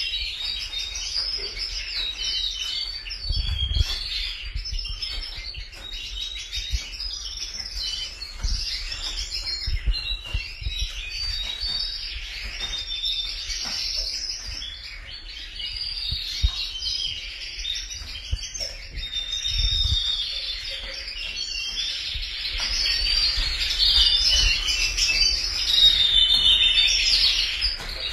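Domestic canaries singing: an unbroken run of fast trills and rolling, warbled phrases, getting louder over the last few seconds, with occasional low thumps underneath.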